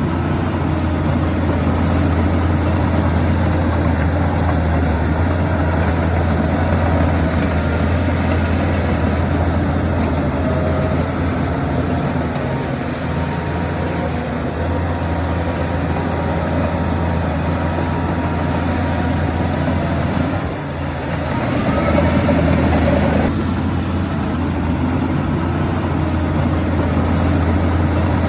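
Heavy diesel engine of earthmoving machinery running steadily with a low drone. About 21 seconds in it briefly dips, then rises in pitch and loudness as if under load, and drops back suddenly about two seconds later.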